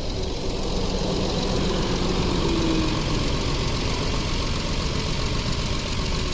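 2011 Jeep Wrangler's 3.8-litre V6 engine idling steadily.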